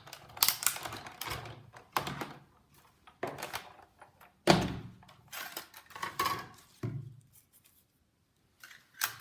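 Sizzix Big Shot die-cutting machine being run by hand, its cutting-pad sandwich with a banner framelit clunking and clicking through the rollers, with irregular knocks from the plates. The loudest knock comes about four and a half seconds in.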